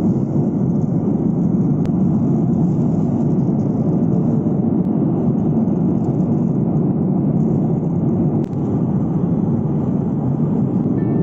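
Steady loud rumble of a passenger airliner heard from inside the cabin, with a brief dip and a small click about eight and a half seconds in.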